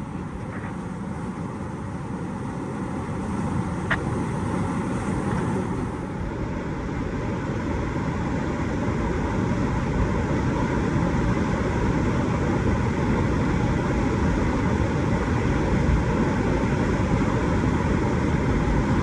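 Rushing whitewater of a creek rapid: a steady rush that grows gradually louder, with one sharp tick about four seconds in.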